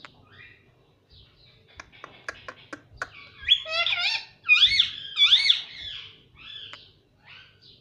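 Pet ringneck parrot calling in a run of loud, rising-and-falling chirps, loudest in the middle, with fainter calls after. A few sharp clicks come just before the calls.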